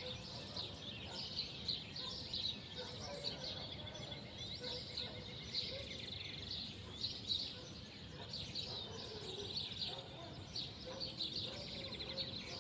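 Many small birds chirping and twittering over one another without pause, over a steady low background rumble.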